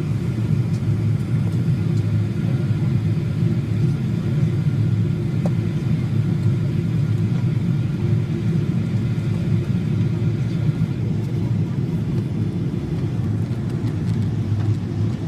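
Steady low rumble of an airliner cabin in flight, the engine and airflow noise heard from a passenger seat during the descent.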